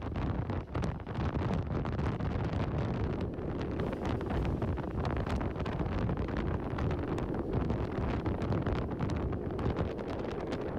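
Wind buffeting the microphone of a camera riding on a moving motorcycle, a steady rush with the motorcycle's running noise underneath.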